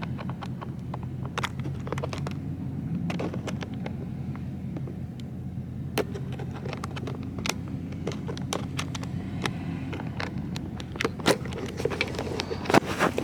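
Car engine running steadily with a low hum, with many short sharp clicks and taps scattered over it, bunching up near the end.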